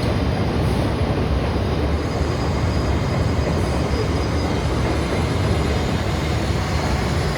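Chicago elevated 'L' rapid-transit train running past on the elevated tracks: a loud, steady rush of wheel and track noise.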